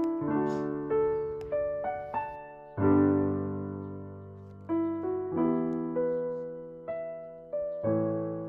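Background piano music: slow, gentle chords and single notes, each struck and left to ring and fade.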